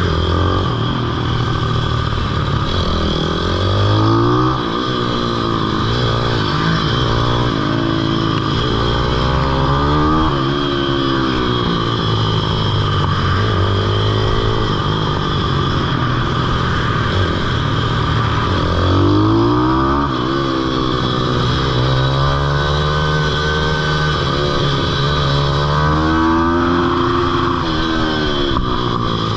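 Pit bike engine revving hard and falling back again and again as the bike accelerates down straights and slows into corners, its pitch climbing and dropping every few seconds.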